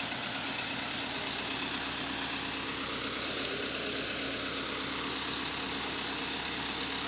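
An old car's engine idling steadily, an even hum with a hiss over it.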